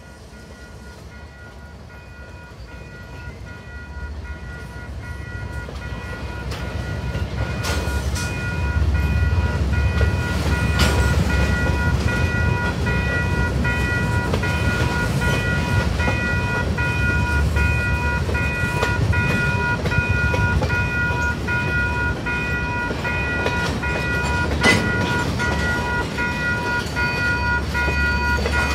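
Freight train of covered hopper cars rolling past, the low rumble of wheels on rail growing louder over the first ten seconds and then holding steady, with a few sharp clanks. A steady high tone of several pitches sounds over it from about two seconds in.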